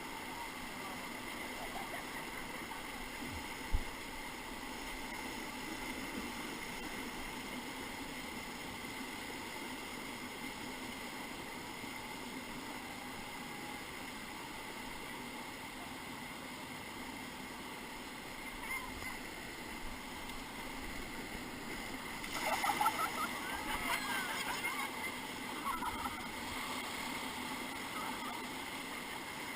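Whitewater river rapids rushing steadily, with one short knock about four seconds in. Faint voices shout briefly near the end.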